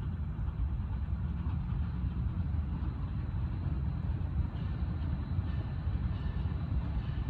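Train rolling by with a steady low rumble.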